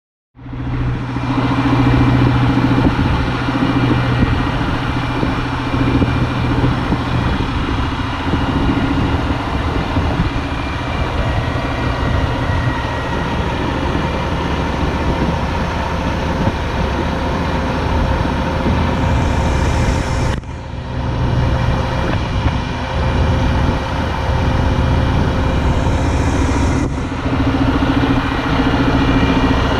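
Diesel engine of a 2020 Mack GR64FR dump truck running steadily, with two brief dips in sound about twenty and twenty-seven seconds in.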